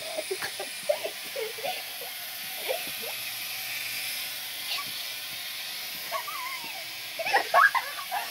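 Several short clicks and knocks in the first couple of seconds over a steady hiss, then a child's brief wordless vocal sounds near the end.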